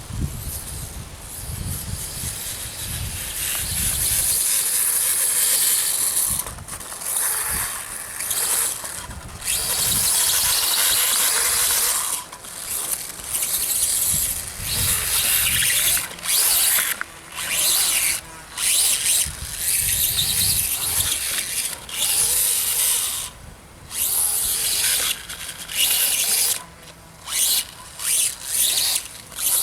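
Electric motor and drivetrain of an RC dirtbike whining high in bursts as the throttle is opened and closed. The bursts are long at first, then come as short blips with brief gaps in the second half. A low rumble lies under the first few seconds.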